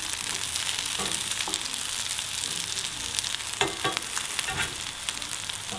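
Couscous and feta patties sizzling and crackling in rapeseed oil in a non-stick frying pan, with a plastic spatula and a spoon scraping and tapping in the pan now and then.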